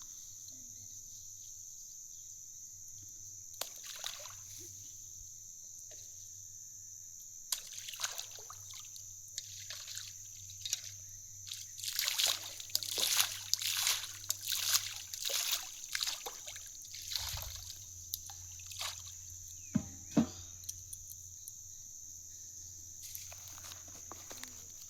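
Water splashing and sloshing in short bursts, busiest around the middle, over a steady high-pitched whine.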